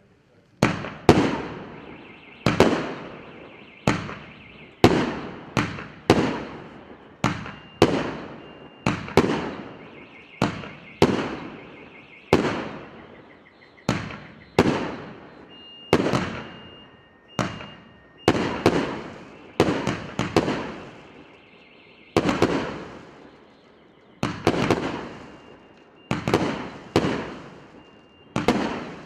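200-shot, 1.2-inch fireworks cake firing: a run of sharp bangs, roughly one a second and sometimes in quick pairs, each trailing off before the next. A faint high steady tone sounds between the bangs.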